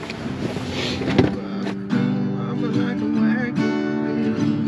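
A truck's power window being lowered: a short whirring noise with a click about a second in. Then acoustic guitar background music starts about two seconds in and carries on steadily.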